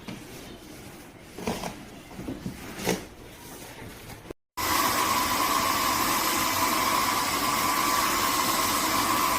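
A few light knocks and clicks, then, about four and a half seconds in, a cordless wet-and-dry vacuum mop's motor starts abruptly and runs steadily with a high whine.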